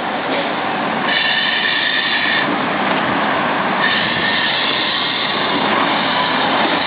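Steady roadside traffic noise with a high-pitched squeal about a second in, lasting over a second, and a shorter, fainter squeal about four seconds in.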